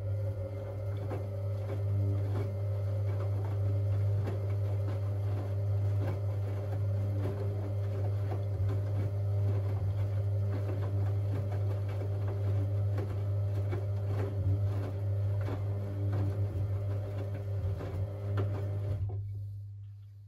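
Siemens Siwamat 6143 washing machine running during a boil wash: a steady low mains-frequency hum with scattered light clicks and rattles, which winds down and stops about nineteen seconds in.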